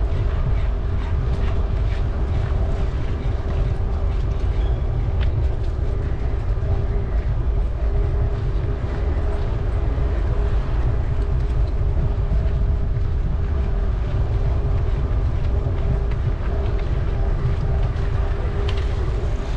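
Ride noise from a bicycle in motion: a steady low rumble of wind on the microphone and tyres on the path, with a faint constant hum.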